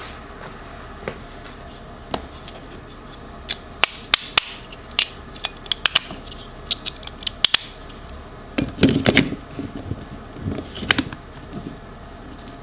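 Small tools and parts being handled: scattered sharp clicks, taps and light scrapes, with a louder flurry of rustling and knocking about nine seconds in.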